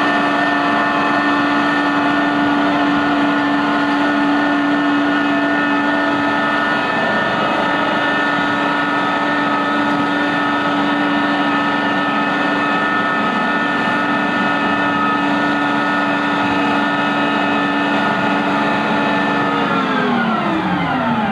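An engine or motor running steadily with a high whine, then slowing near the end, its pitch sliding down.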